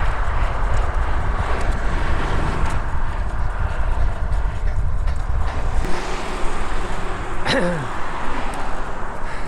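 Wind buffeting the microphone of a cyclist riding along a main road, with road traffic around him; the low rumble eases about six seconds in. A short falling squeal sounds about seven and a half seconds in.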